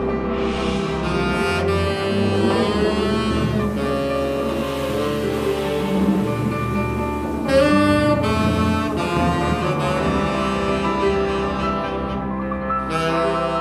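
Live jazz quintet playing: a saxophone carries the line, with a brass horn (bass trumpet), double bass and the rest of the band underneath.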